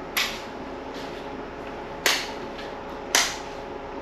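Three sharp knocks, irregularly spaced a second or two apart, over a faint steady room background.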